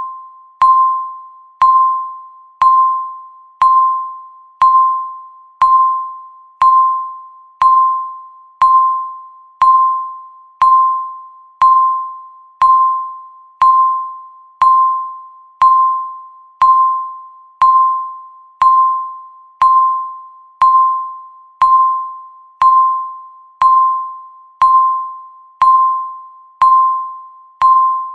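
Countdown timer's electronic beep, one per second: a single chime-like tone with a sharp start that fades away before the next.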